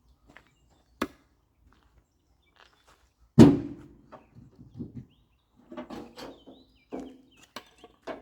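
Firewood being handled: a sharp knock, then one heavy thunk of a log landing, followed by a string of lighter wooden knocks and clatters as pieces are tossed down.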